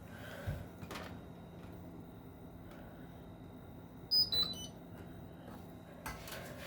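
Hotpoint NSWR washing machine giving two short electronic beeps about four seconds in, over a steady low hum and a few soft knocks.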